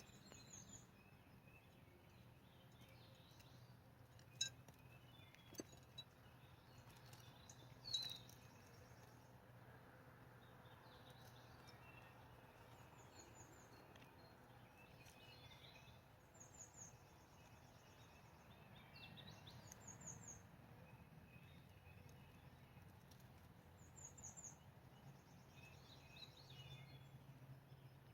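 Faint wild bird calls: short, high chirps repeating every few seconds over quiet outdoor background noise, with a couple of sharp clicks in the first eight seconds.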